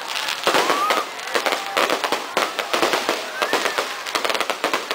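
Fireworks display going off: a dense run of sharp bangs and crackles, one after another, with no break.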